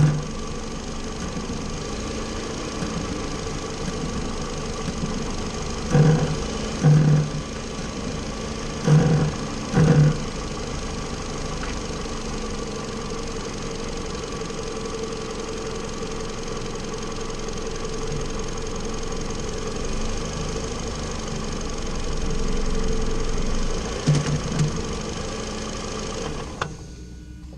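A car running with a steady mechanical hum, broken by short low buzzes in pairs about a second apart, three times: typical of the brake-pedal noise as the car comes to a slow stop. The hum drops away sharply near the end.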